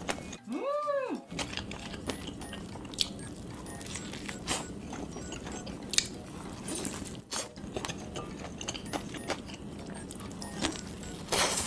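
Close-miked eating: crisp bites and chewing crunches, heard as scattered sharp crackles. Near the start comes a short tone that rises and then falls in pitch.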